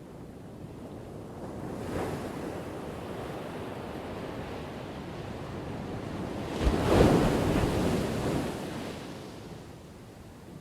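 Ocean surf crashing on a shore: the wash swells about two seconds in, then a bigger wave breaks a little before the seventh second, the loudest moment, and its rush of water fades away toward the end.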